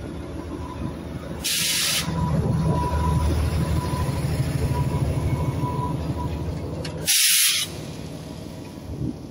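Narrow-gauge locomotive's engine running, pulling harder about two seconds in. Two short hisses of compressed air break in, one about one and a half seconds in and a louder one about seven seconds in.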